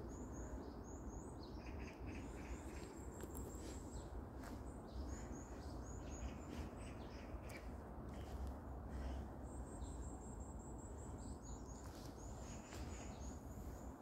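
Small songbirds calling in short, high-pitched chirps that come in quick runs several times, over a steady background hiss of outdoor ambience.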